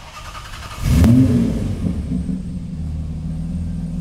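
Engine of an open-top vintage racing roadster revving up about a second in, the pitch rising and falling, then settling into a steady low note as the car rolls slowly along.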